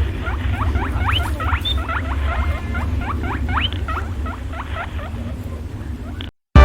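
Rat squeaking: a fast string of short, high, upward-sliding squeaks, several a second, over a low hum, cutting off suddenly near the end.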